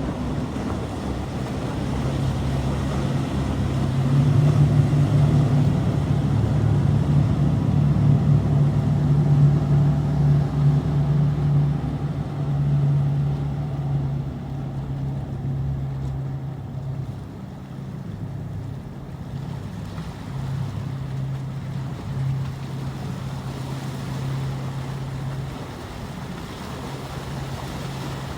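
Motorboat engine running with a steady low drone, loudest from about four seconds in and easing off after about twelve seconds, as if the boat passes and moves away.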